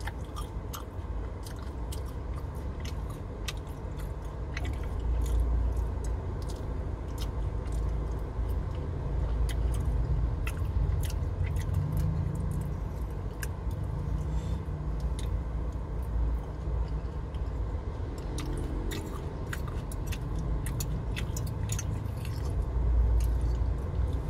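Close-up chewing and eating of siomay and batagor, with many light clicks of a metal fork against a glass plate, over a steady low rumble in the car's cabin.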